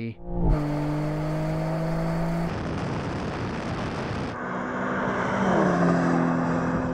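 Twin-turbocharged BMW engine accelerating hard from a rolling start, its pitch climbing steadily. About two and a half seconds in it gives way to a stretch of rushing wind and road noise. Near the end the engine comes back, still climbing, and its pitch drops at an upshift.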